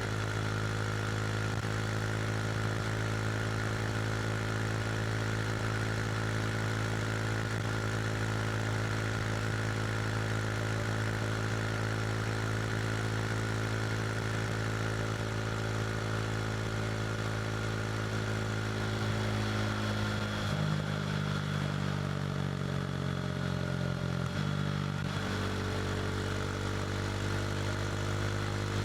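KTM RC 390's single-cylinder engine through an SC Project slip-on exhaust, cruising at a steady highway speed with an unchanging engine note. About twenty seconds in the note shifts for a few seconds, then settles back to the same steady pitch.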